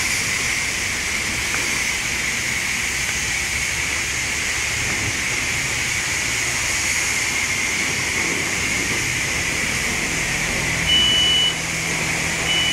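Steady hiss of a car wash's high-pressure spray wand spraying water. About eleven seconds in, a high electronic beep sounds once, and again at the very end.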